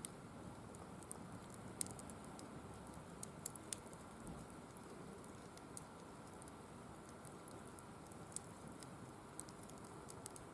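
Firewood burning in a wire-mesh fire pit, crackling with irregular sharp pops over a faint steady noise.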